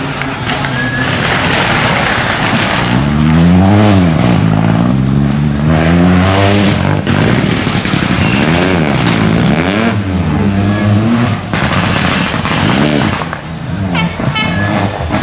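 Rally car engine revving hard, its pitch climbing and dropping several times as the car accelerates and lifts off along the stage.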